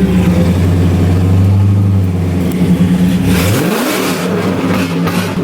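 Loud straight-piped 2009 Cadillac CTS-V's supercharged V8, exhaust running straight from headers through an X-pipe with no mufflers. It drones steadily, then revs up with a rising pitch a little past halfway.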